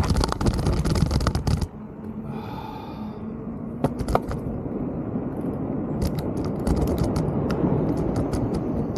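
Mountain bike rolling over a dirt trail: the tyres crunch and scrape on loose ground, with rapid clicks and rattles from the bike. Wind on the microphone is loud for the first second and a half, then drops away, and the clicking gets busier in the second half.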